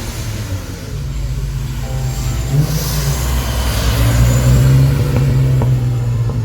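A car engine driving close by, its low note stepping up about two and a half seconds in and loudest a little past the middle before easing slightly.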